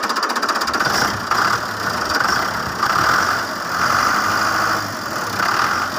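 Fiat tractor's diesel engine running steadily, its note swelling and easing every second or so.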